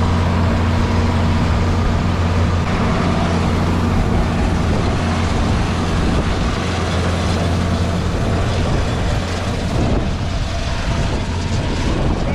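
Farm tractor engine running steadily under load with a constant low drone, pulling a round baler, with wind noise on the microphone.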